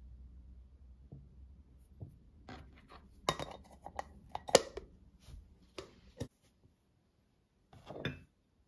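Small objects being handled: a string of light clicks, clinks and knocks, then a short scrape near the end.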